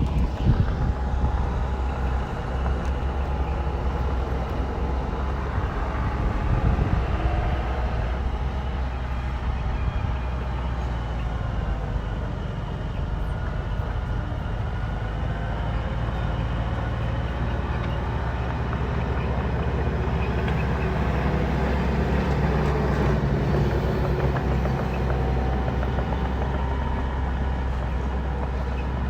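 Heavy diesel engine of a bulldozer running steadily at work, its pitch rising and falling a little.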